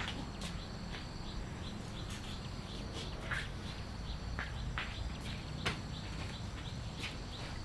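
Outdoor background sound: scattered short chirps and clicks, like small birds or insects, over a steady low rumble.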